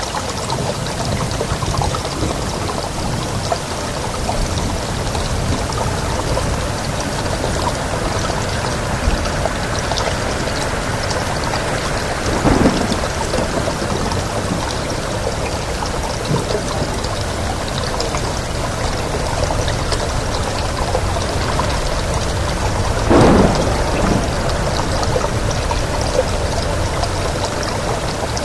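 Steady rain with wind, an even hiss and low rumble. Two brief louder bursts come, about halfway through and again near the end.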